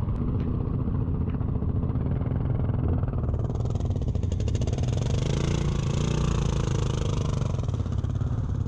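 Motorcycle engine, the Yamaha Ténéré 700's parallel twin, running steadily while riding a muddy trail. A hiss joins it about three seconds in and fades out near the end.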